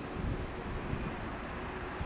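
Distant jet airliner engines: a low, steady noise with a faint steady hum, mixed with wind buffeting the microphone.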